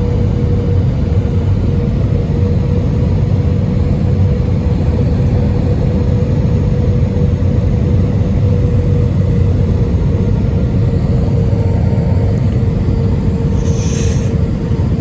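Airbus A320 cabin noise: the engines and airflow give a steady low rumble with a constant hum over it. A short hiss comes near the end.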